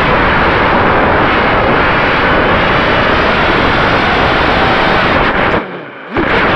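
Strong wind rushing and buffeting over an FPV quadcopter's onboard camera microphone, with the quad's motors running underneath. The noise drops away briefly for about half a second near the end, then comes back.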